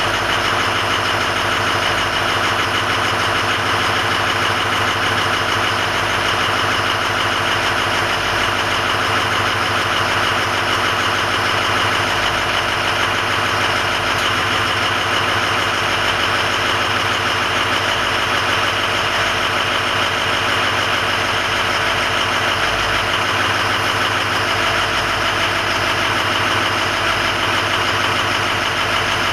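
Ford 6.0 Powerstroke V8 turbo-diesel idling steadily, warming up shortly after a cold start.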